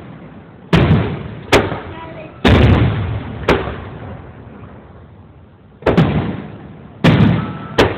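Aerial fireworks shells bursting overhead: about seven sharp booms, each trailing off in a long rumbling echo.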